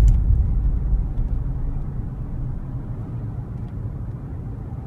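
Steady low rumble of a car driving, as heard from inside the cabin, loudest at the start and easing off over the first couple of seconds.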